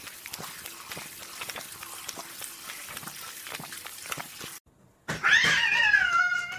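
A cat's long meow with a wavering pitch, starting near the end after a short break. Before it there is faint rustling with scattered clicks.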